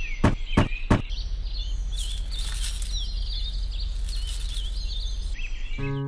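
Three sharp knocks in the first second, then birds chirping over a steady low hum.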